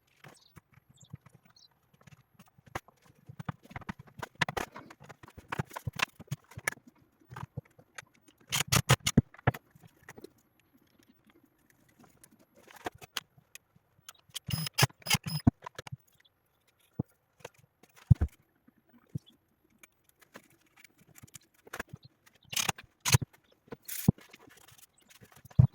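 Irregular clicks, knocks and scrapes of hard objects being handled, coming in clusters with short quiet gaps between them.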